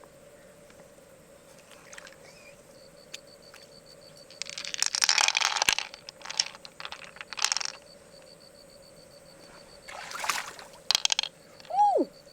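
Shallow river water splashing and pouring in a few short bursts, the first about four and a half seconds in and another near ten seconds in.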